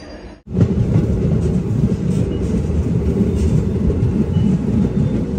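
Passenger train running along the track, heard from on board: a steady, loud rumble of wheels on rails that starts abruptly about half a second in.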